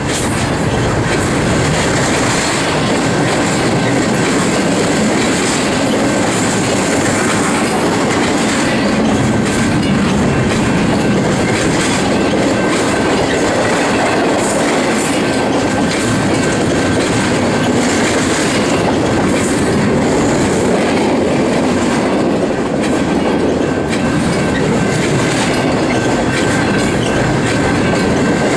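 Union Pacific intermodal freight train rolling past close by: a steady, loud rumble of wheels on rail with clickety-clack, and a faint thin squeal held throughout.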